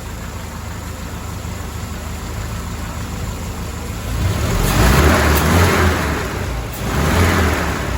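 Mercedes-Benz W124 230E's four-cylinder engine idling, then revved twice: a longer rev about four seconds in and a shorter one about seven seconds in.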